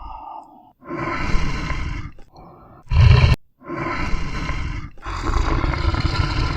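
A large animal roaring, several long roars one after another with short breaks between them, and a short, louder roar about three seconds in.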